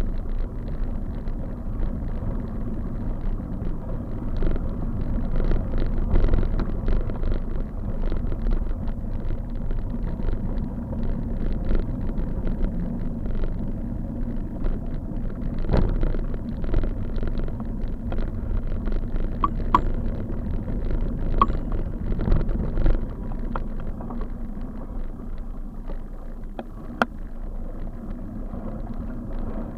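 Steady wind and road rumble on a camera carried on a moving bicycle, with frequent small knocks and rattles as it goes over bumps.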